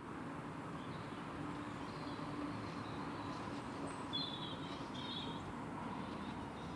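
Outdoor ambience: a steady background hiss and hum, with a few short, high bird chirps about four to five seconds in.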